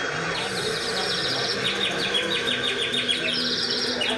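Rapid, high-pitched chirping trills, insect- or bird-like, in repeated runs over a steady low hum. It is the nature-sound intro to the show's soundtrack, played over loudspeakers.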